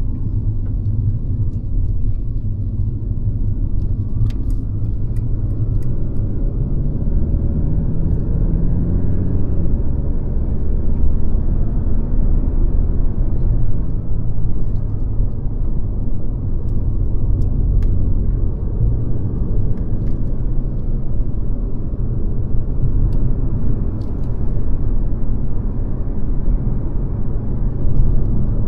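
Mercedes-Benz C-Class (W206) on the move: a steady low rumble of engine and road noise, with the engine note rising for a couple of seconds about seven seconds in.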